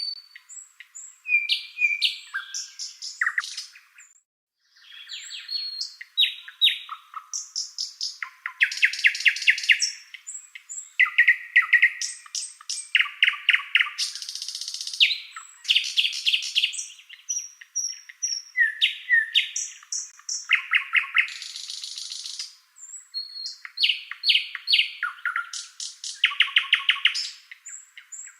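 Songbird singing a long, varied song of fast trills, rapid runs of repeated notes and short whistled and gliding notes, broken by brief pauses.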